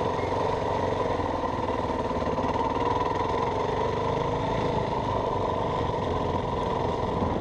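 Yamaha WR450F dirt bike's single-cylinder four-stroke engine running steadily while being ridden.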